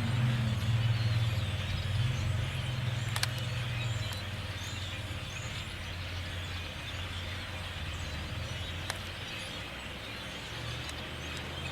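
A flock of starlings chirping faintly over a low rumble. The rumble is loudest for the first four seconds and then eases, and there are two sharp clicks, about three and nine seconds in.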